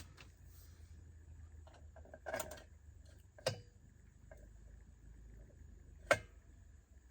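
Chainsaw parts being handled during assembly: a few light clicks and knocks of plastic and metal, the sharpest about six seconds in, over a faint steady hum.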